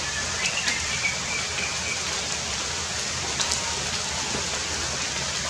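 Heavy rain falling steadily, with a few sharper drop taps among the hiss.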